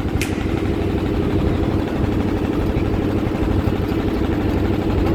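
Motorboat engine running steadily at an even pitch, with one short click just after the start.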